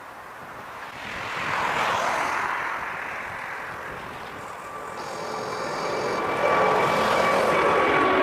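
Jet airliner engines passing. The rushing noise swells about a second in, eases off, then grows louder again from about five seconds in, with a steady high whine over it.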